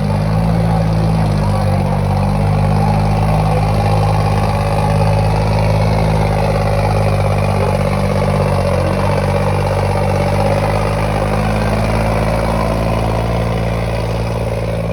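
Diesel tractor engine running steadily and loudly while pulling a harrow, its level easing a little near the end.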